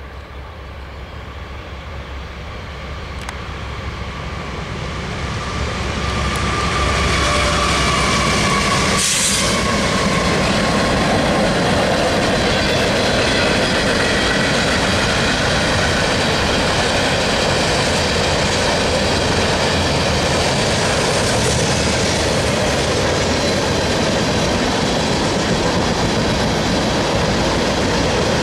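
Norfolk Southern freight train's diesel locomotives approaching and growing louder over the first seven seconds or so, then the steady loud rolling rumble and clatter of freight cars passing close by, with faint high wheel squeal.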